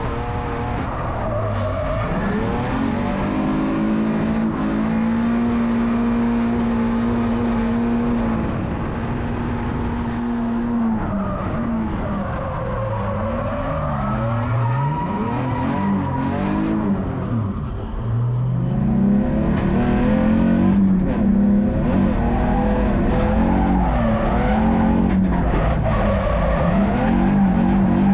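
Drift car engine at high revs, held steady for several seconds, then falling and climbing again as the throttle is worked, with tyres squealing as the car slides.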